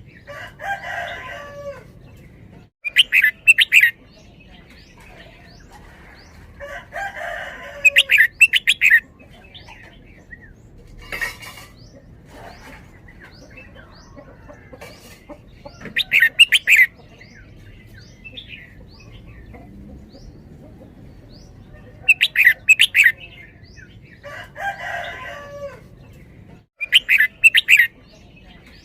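Red-whiskered bulbul singing in short, bright, rapid phrases that come back every few seconds, several loud notes doubled in quick succession in the 'double' song style, with quieter, rougher warbles between them.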